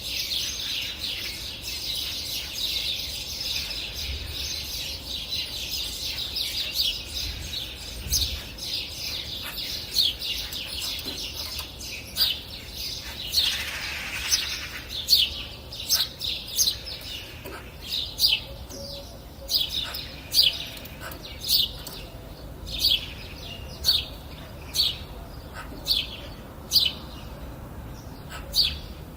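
Birdsong: many small birds chirping together in a dense chorus. About halfway through it gives way to one bird repeating a loud, short, sharp chirp about once a second.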